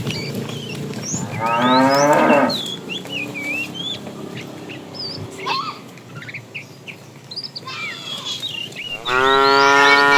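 Cattle mooing: one long moo about a second and a half in and another near the end.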